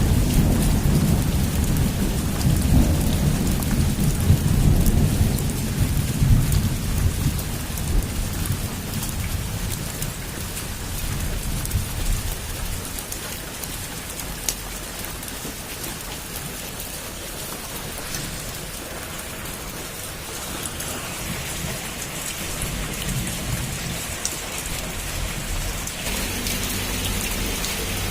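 Heavy rain pouring steadily on a rooftop, with a deep rumble at the start that dies away over the first ten seconds or so.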